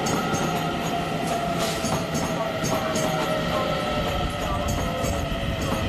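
Train moving through the station: steady running noise with a whine that slowly drops in pitch, and a run of quick clicks.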